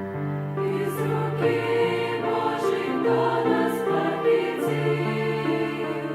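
A church choir singing a hymn in slow, sustained chords.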